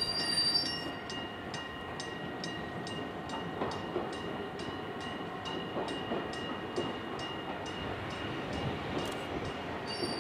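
Izuhakone Railway 1300 series electric train (ex-Seibu New 101 series) rolling slowly into a station. Its wheels squeal high-pitched at first, dying out within the first second, then a steady running rumble carries on with light, even clicks about three times a second.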